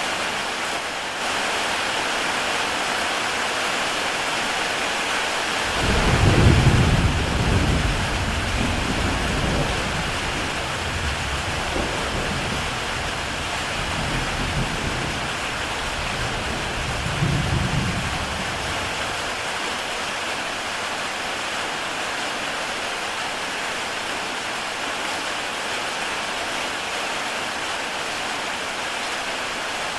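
Heavy rain falling steadily on a tile roof, with a roll of thunder rumbling in suddenly about six seconds in, swelling again near eighteen seconds and dying away soon after.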